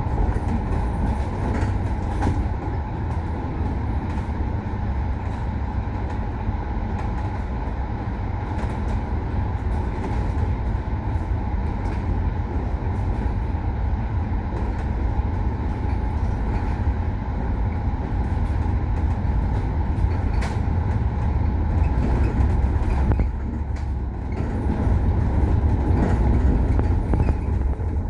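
KMB bus engine running under way: a steady low rumble with a constant whine and scattered rattles. The noise drops briefly about four-fifths of the way in, then comes back.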